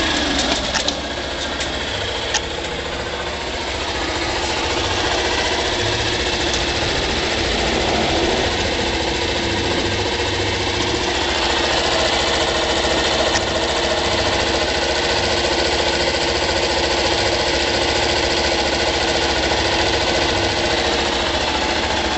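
Honda Press Cub Fi's 50 cc single-cylinder four-stroke engine, freshly started, with its revs dropping back in the first second, then idling steadily. A few light clicks sound in the first few seconds.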